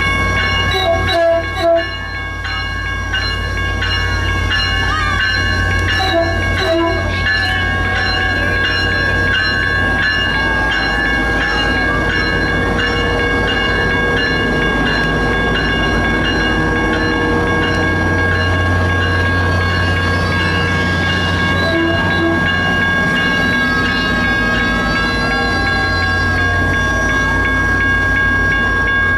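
Diesel passenger locomotive running steadily with a deep engine rumble and a steady high-pitched whine over it.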